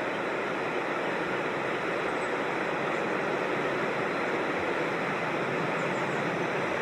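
Steady rushing of a mountain creek or small waterfall, an even unbroken roar of flowing water.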